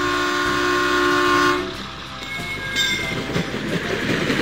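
Battery-powered toy trains on plastic track: an electronic horn sound effect sounds for about the first second and a half and cuts off, then the small motors and wheels keep up a steady rattling clatter.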